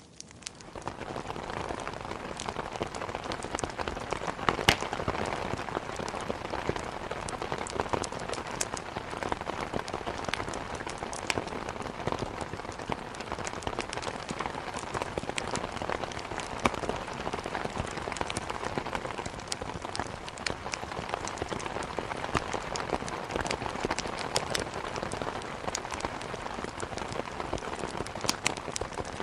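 Steady heavy rain with many scattered sharp ticks of drops, swelling up from a brief dip in the first second.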